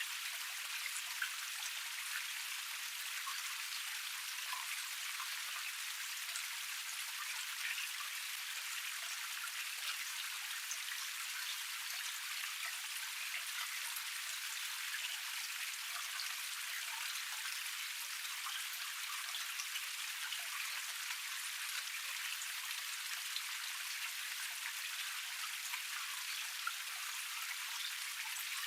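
A small forest cascade flowing: a steady hiss of running water peppered with many small drip-like splashes.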